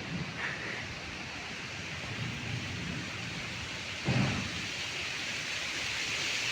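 Steady hiss of wind outdoors ahead of rain, with a brief low rumble of wind buffeting the microphone about four seconds in.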